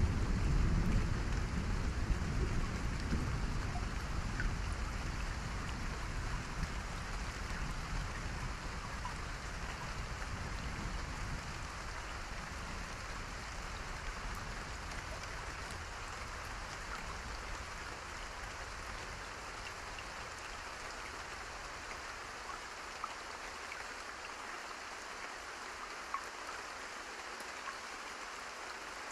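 Steady rain hiss, with a low rumble of thunder at the start that slowly fades away over the first fifteen seconds or so. A few faint ticks stand out near the end.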